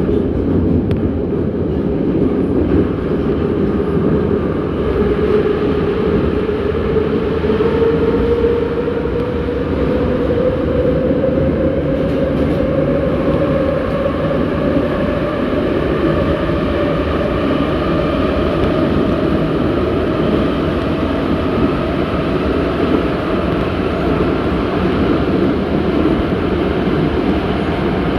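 81-717.6 metro train running, with wheel and rail noise under the whine of its traction motors, which rises slowly in pitch as the train gathers speed, then holds steady.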